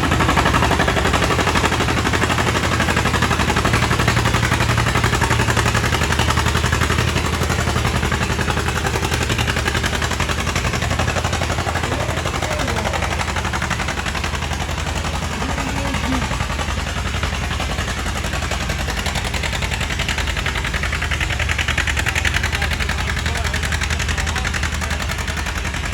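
Antique farm tractor engine running hard under load during a pull, its exhaust firing as a fast, loud, steady rattle of pulses.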